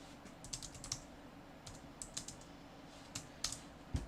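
Typing on a computer keyboard: irregular clusters of quick key clicks with short pauses between them, and one heavier thump near the end.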